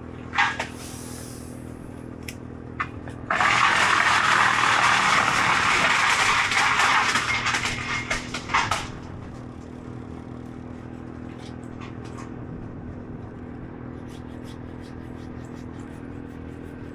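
An engine runs steadily throughout. About three seconds in, a loud rushing, scraping noise starts and lasts about five seconds, with a few sharp clicks around it.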